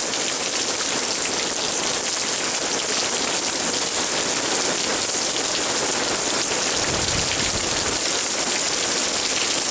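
Heavy rain from a hurricane's outer band falling steadily and hitting the ground.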